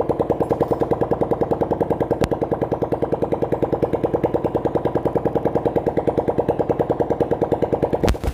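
Bajaj Pulsar's single-cylinder four-stroke engine idling with a steady, even beat after a rebuild with a new piston and rings, a fresh clutch-cover gasket and new engine oil. A couple of sharp knocks come right at the end.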